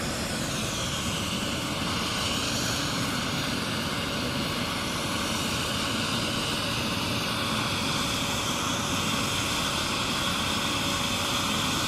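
Air ambulance helicopter idling on the ground, its turbine running with the rotor slowed: a steady whine over an even rush of noise.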